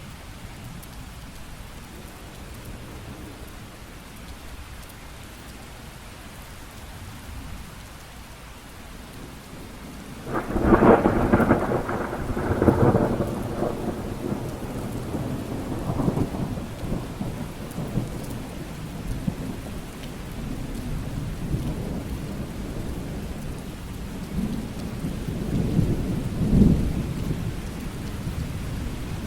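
Steady rain falling. About ten seconds in, a loud crack of thunder breaks out and rolls on as a rumble for several seconds, and a second rumble of thunder swells near the end.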